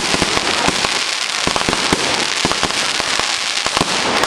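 Fireworks crackling: a dense, continuous run of sharp pops and snaps over a steady hiss.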